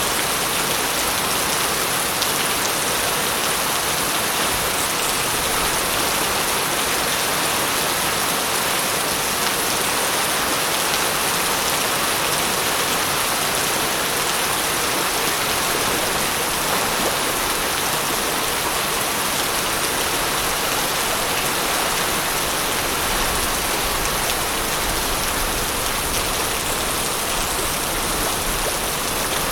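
Steady rain falling on a surface: an even, continuous hiss of many drops.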